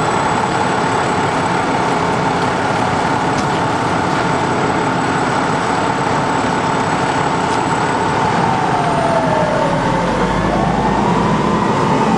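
Steady rumble of emergency-vehicle engines running at a crash scene. About eight seconds in, an arriving ambulance's siren wails down, up and down again.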